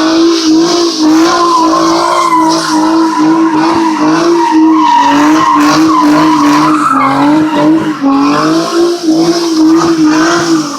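Car engine held at high revs with tyres squealing on pavement, as in a burnout or donuts. The sound is loud and steady, with a slightly wavering pitch.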